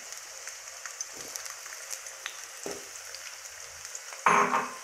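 Potato chunks frying in shallow oil in a metal pan: a steady soft sizzle with scattered small crackles. A brief louder sound comes near the end.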